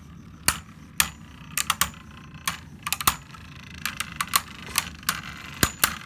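Two Beyblade Burst spinning tops clashing in a plastic stadium during a stamina battle. Irregular sharp clicks and clacks, some in quick clusters of two or three.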